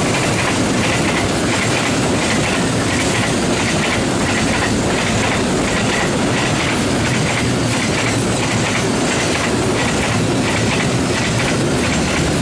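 Container wagons of a freight train rolling past, their wheels clattering on the rails in a steady, rhythmic clickety-clack.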